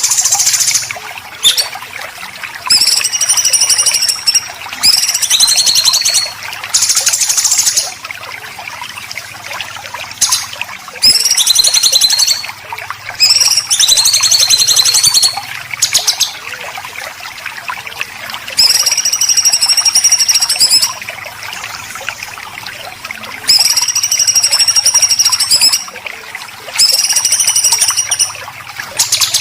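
Songbird singing a besetan: loud, harsh, very fast rattling phrases of a second or two each, repeated about a dozen times with short gaps. Water trickles steadily underneath.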